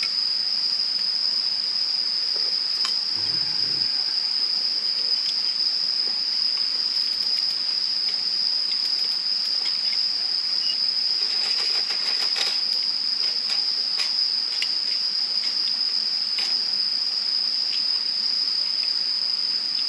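A steady, high-pitched chorus of chirring insects, with scattered small clicks and ticks, thickest around the middle.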